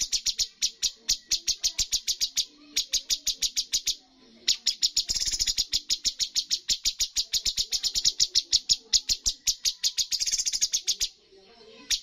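Cucak cungkok bird singing rapid-fire runs of sharp, evenly repeated notes, about ten a second. The song has brief breaks near 3 and 4 seconds in and a pause near the end.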